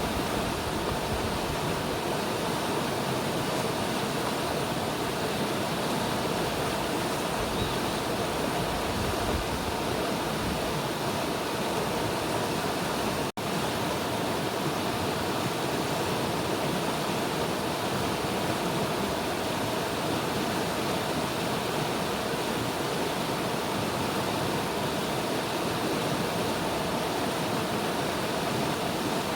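River water flowing steadily, with a brief dropout about 13 seconds in.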